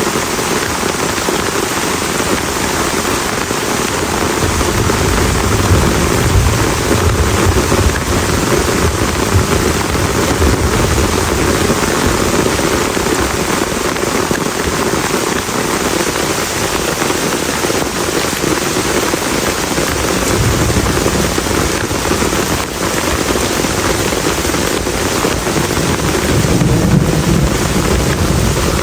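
Heavy rain pouring steadily onto a camp shelter, with low rolling rumbles of thunder swelling a few seconds in and again near the end.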